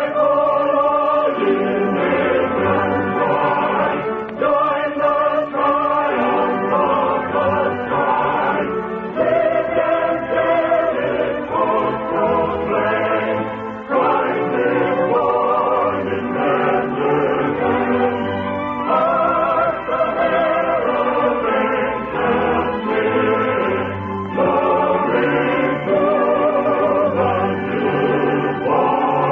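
A choir singing, the musical bridge that opens an act of an old-time radio play. It has the muffled sound of an early-1950s broadcast recording with no high treble.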